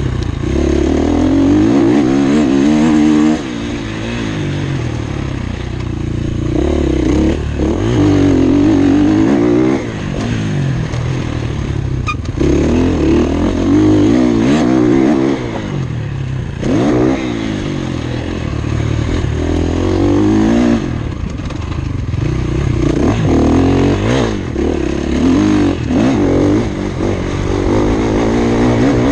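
Motocross bike engine recorded on board through a lap, revving up and down again and again: repeated climbs in pitch under acceleration, then drops as the throttle is shut off.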